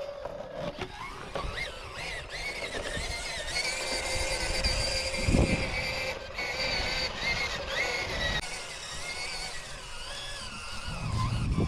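An RC rock crawler's electric motor and geared drivetrain whining, the pitch wavering up and down with the throttle as it climbs over rock. A low thump about five seconds in and another near the end.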